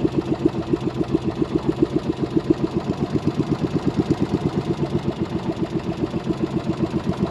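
Small boat engine running steadily at low revs, with an even chugging pulse of about eight beats a second.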